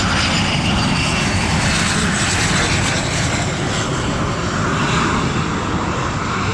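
Twin-engine jet trainer (Alenia Aermacchi M-346 Master, Honeywell F124 turbofans) flying a display, its jet noise a loud, steady rush. A faint high whine, falling slightly in pitch, is heard in the first second or two.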